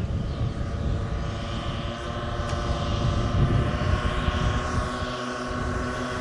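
Giant-scale radio-controlled Transall C-160 model aircraft in flight, its propeller drive running with a steady set of humming tones. Gusty wind rumbles on the microphone underneath.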